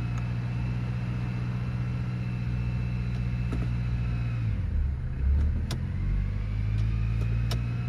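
Toyota Camry engine idling steadily; about halfway through its note dips and wavers for a second or so, then settles back to idle, with a few light clicks. The car will not drive forward: the automatic transmission still has no forward gears after new shift solenoids.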